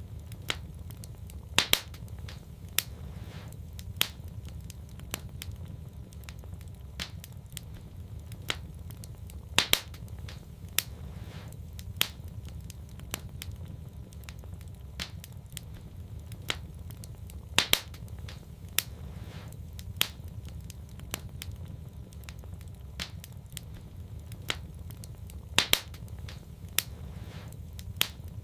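Wood fire in a fireplace crackling, with scattered sharp pops over a steady low rumble; the loudest pops come in close pairs about every eight seconds.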